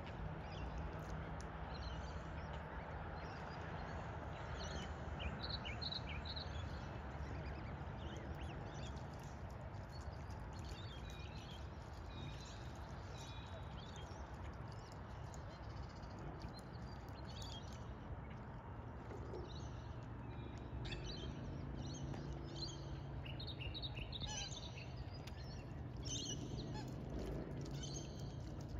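Birds calling with short, high chirps, scattered at first and busier over the last third, over a steady low background hum.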